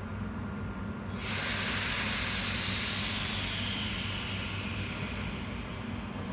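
Compressed air hissing out of the Hakone Tozan Railway Moni 1 electric freight car's air brakes: a sudden loud hiss about a second in that slowly fades, with a faint falling whistle in it, over a steady low hum.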